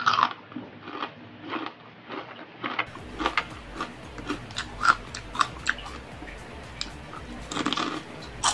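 Close-up crunching and chewing of crispy deep-fried chicharon bulaklak (fried pork intestine): a string of sharp crackling bites, loudest at the start and again in a burst near the end.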